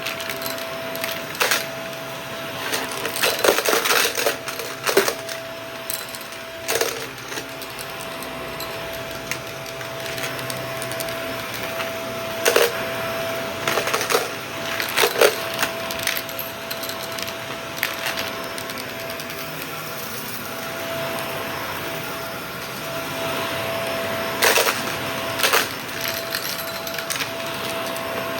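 Shark vacuum cleaner running steadily with a constant whine under its airflow hiss, while scattered debris crackles and rattles up the nozzle in sharp clicks, several times in quick clusters.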